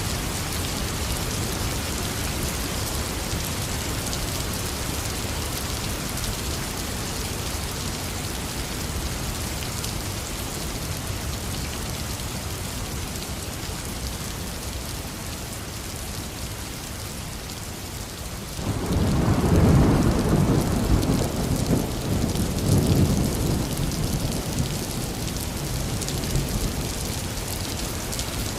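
Heavy rain falling steadily. About two-thirds of the way through, a thunderclap breaks in suddenly and rolls on as a deep rumble for several seconds before fading back under the rain.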